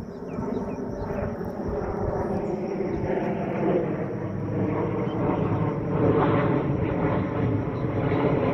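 Engine drone that grows steadily louder as it approaches.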